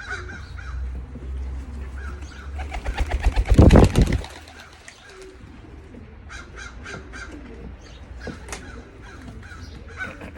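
Racing pigeons cooing in the loft, with a loud burst of rapid fluttering about three seconds in.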